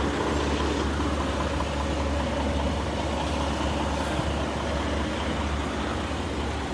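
Semi-truck's diesel engine running steadily, a low hum under an even wash of noise.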